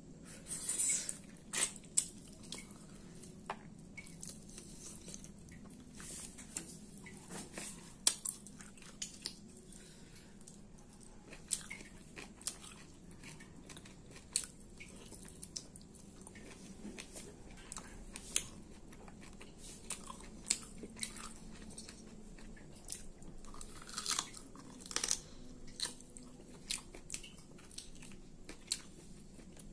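A person chewing mouthfuls of khichdi and mutton curry eaten by hand: wet chewing with many sharp clicks at irregular intervals.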